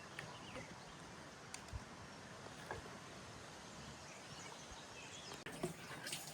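Faint, steady outdoor background noise with a few light clicks and knocks scattered through it.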